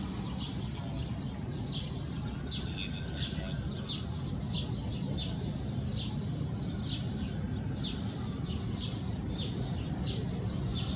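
A bird chirping over and over, short falling chirps about twice a second, over a steady low rumble.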